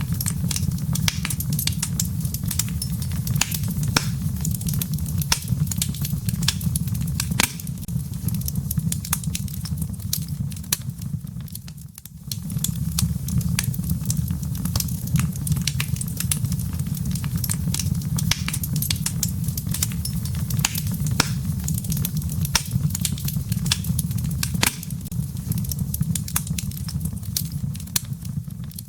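Wood fire in a fireplace crackling, with irregular sharp pops and snaps from the burning logs and embers over a steady low rumble of the flames. The sound dips briefly about twelve seconds in.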